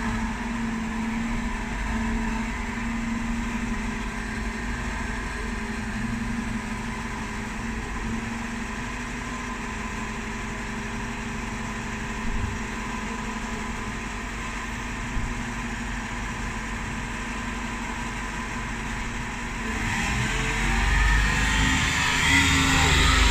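Bin lorry's diesel engine running steadily, then rising in speed and getting louder about twenty seconds in.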